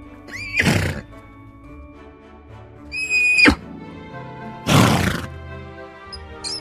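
Horse whinnying once, a long high call that drops sharply at its end, with two short noisy blasts of breath before and after it, over steady background music.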